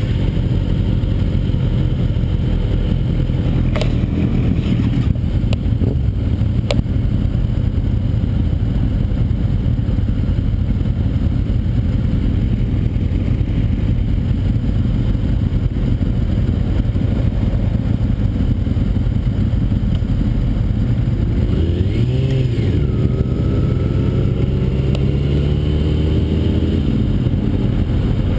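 Kawasaki Ninja ZX-6R's inline-four engine idling steadily alongside other idling motorcycles, then pulling away with the engine pitch rising, starting about 22 seconds in.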